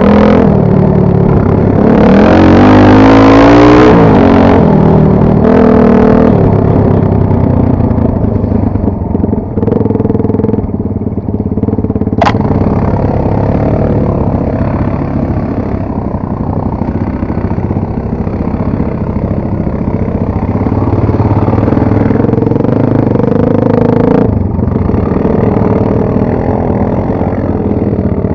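Two-stroke enduro motorcycle engine running while riding off-road, its revs rising and falling with the throttle, with hard revving in the first few seconds and again about 22 seconds in. A sharp click about 12 seconds in.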